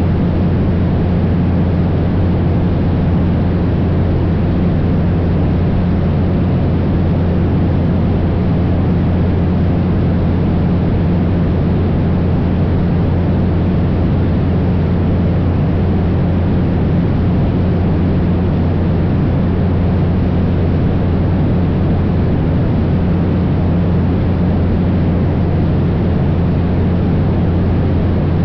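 Cessna 172's single piston engine and propeller droning steadily in cruise flight, an unchanging low hum with rushing air noise over it.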